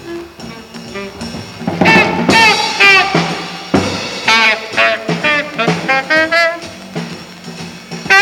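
Tenor saxophone playing short, bending phrases with a wavering pitch, over double bass and drums in a live jazz trio. The saxophone gets louder about two seconds in.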